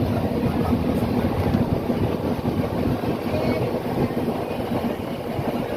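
Passenger train running: a steady rumble with a low hum underneath.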